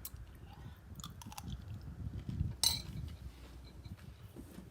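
Close-up chewing of crunchy cereal, with a sharp clink of a spoon against the bowl a little past halfway through.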